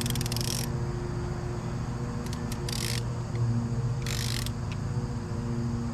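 A steady low hum runs throughout, broken by three short hissing bursts of about half a second each: one at the start, one near the middle and one about two-thirds in. A few faint clicks fall between the first two bursts.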